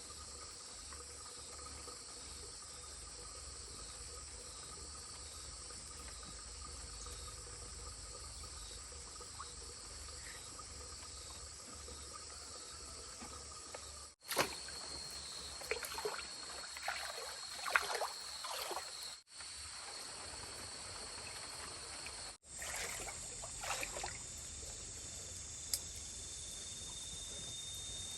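Rural background ambience: a steady high-pitched insect-like drone over trickling water, with a few light knocks and clatter around the middle. The sound drops out briefly several times.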